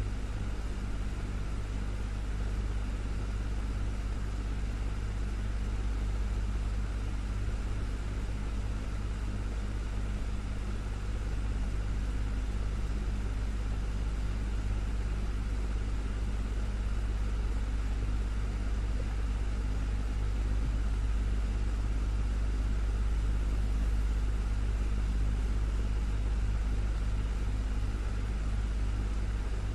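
Desktop fan running steadily: a constant low motor hum with the even rush of air from the blades.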